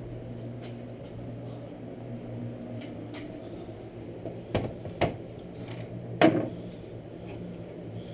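A few sharp knocks and clicks of small parts being handled while a recoil pull starter is reassembled, two close together and a louder one about six seconds in, over a steady low hum.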